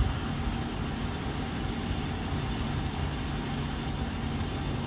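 Steady low rumble of a car engine running, with a faint even hum over it.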